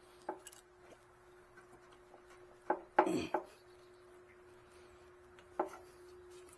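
A few scattered knocks and clicks from hands and tools working at a motorcycle's gas tank, the loudest a short cluster about three seconds in, over a faint steady hum.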